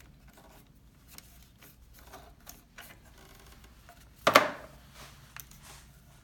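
Faint scattered clicks and rubbing of hands handling parts and wiring on an ATV, with one loud, short, sharp knock about four seconds in.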